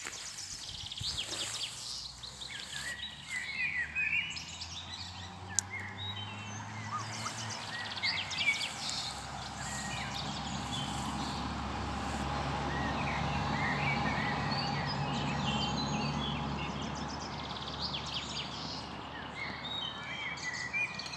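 Several small birds chirping and singing, short calls and trills overlapping throughout. A steady low rumbling background noise swells in the middle and fades again near the end.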